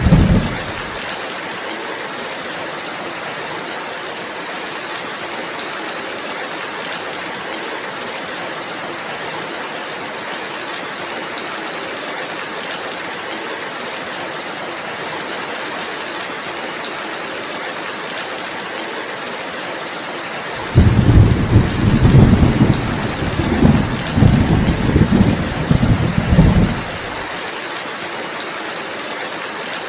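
Steady rainfall hiss with thunder. A rumble fades out in the first second, then a louder rolling rumble of thunder with several swells lasts about six seconds, starting about two-thirds of the way through.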